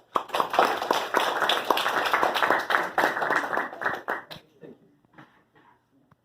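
Audience applauding: dense clapping for about four seconds, then thinning to a few scattered claps.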